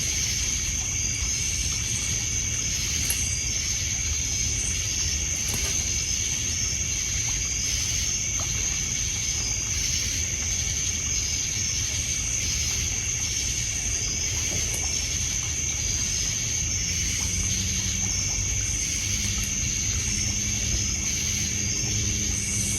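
Night insects, crickets among them, trilling steadily at a high pitch over water lapping on a pebble shore. A low steady tone joins about three-quarters of the way through.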